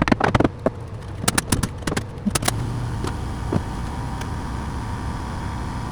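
A quick series of sharp knocks and clicks in the first couple of seconds, then a steady low hum with a faint thin whine over it.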